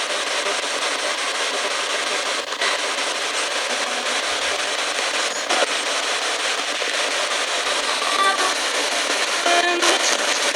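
Spirit box radio sweeping through stations: a loud, steady hiss of static, broken near the end by a few brief snatches of tone from passing stations.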